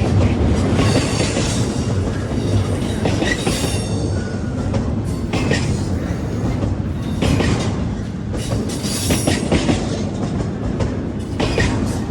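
Railroad cars rolling past with a steady low rumble. Wheels click over rail joints every second or two, with faint high wheel squeal now and then.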